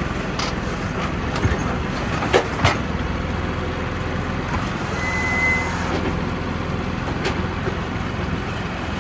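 Mahindra 2555 tractor's diesel engine running steadily while the grapple bucket works. A few sharp knocks come in quick succession a second and a half to three seconds in, and a brief high whine is heard about five seconds in.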